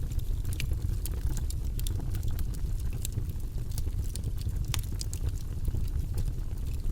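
Campfire burning, with frequent irregular crackles and pops from the wood over a steady low rumble; one sharper pop comes a little past halfway.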